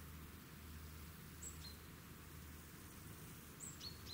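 Quiet outdoor background with a steady low hum, and a small bird chirping faintly: a short high note that steps down to a lower one, once about one and a half seconds in and again twice near the end.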